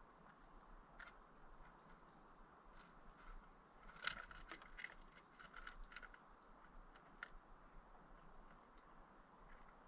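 Small birds close by: light scattered taps and clicks, busiest about four to six seconds in, with faint high chirps.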